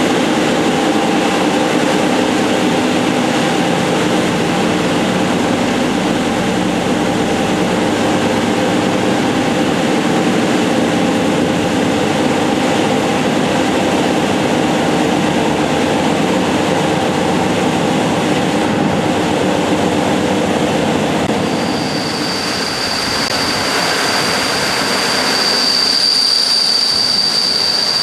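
Passenger train running on the rails: a steady rumble with several low steady tones. About three quarters of the way in, a high, steady wheel squeal sets in and holds to the end.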